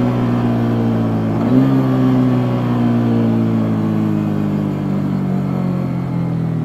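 Yamaha Jupiter MX King 150's single-cylinder four-stroke engine running through its stock exhaust while riding. Its revs step up about a second and a half in, then fall slowly as the bike eases off.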